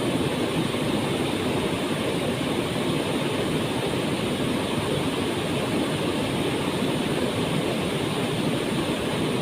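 Waterfall: falling water splashing and rushing as a steady, unbroken roar.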